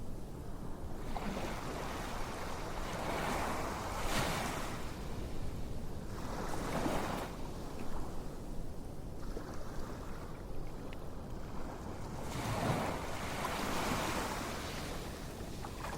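Ocean waves washing in and drawing back, three swells of surf about five seconds apart, with no music or voices.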